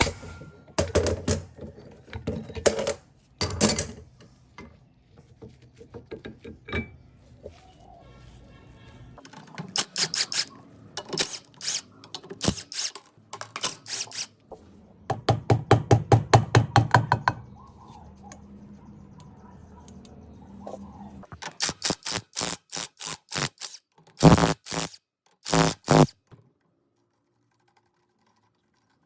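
Repeated knocking and tapping of hand tools on generator parts, in bursts of rapid strokes several a second, then stopping near the end.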